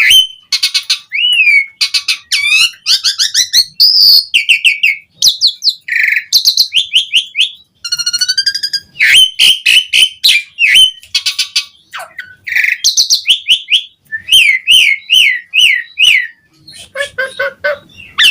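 Asian pied starling (jalak suren) singing energetically: a fast, varied run of whistles, repeated chirps and harsh chattering notes, broken by brief pauses.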